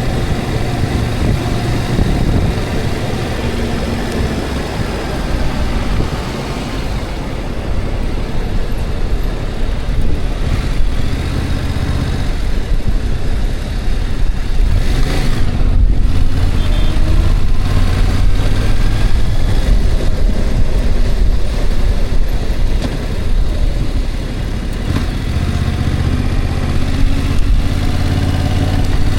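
Motor vehicle driving at road speed: steady engine hum mixed with road and wind noise, the engine note shifting up and down several times.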